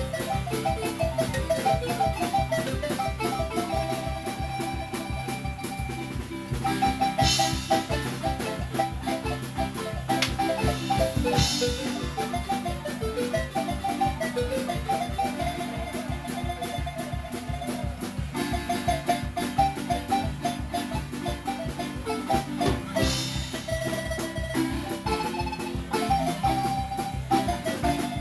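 Marimba music played live: fast repeated mallet rolls carry the melody over bass-bar notes and a steady beat, with a few bright crashes.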